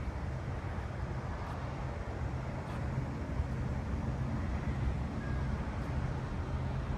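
1977 Cadillac Eldorado Biarritz's big V8 running with a steady low drone.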